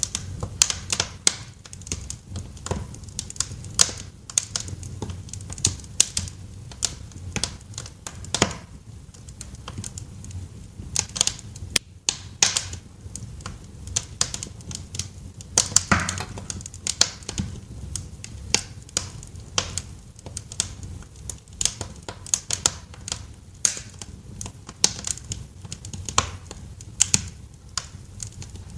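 Wood fire crackling in a fireplace: irregular sharp pops and snaps, several a second, some louder than others, over a low steady rumble.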